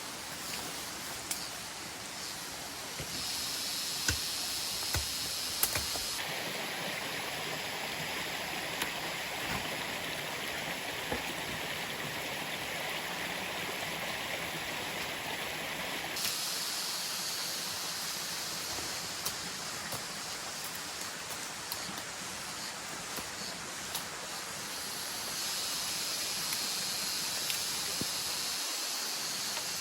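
Steady rushing of a waterfall, with tropical nocturnal insects calling in a high-pitched drone that starts and stops abruptly several times. A few faint clicks come through.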